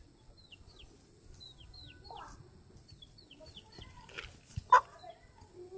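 Birds calling: a run of quick, high, falling chirps throughout, with scattered lower fowl-like clucks and one short loud call about three-quarters of the way through.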